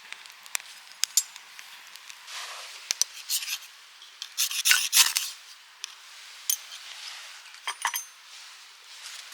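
Close handling sounds: scraping and rubbing strokes with scattered sharp, light clicks, the loudest scraping about halfway through.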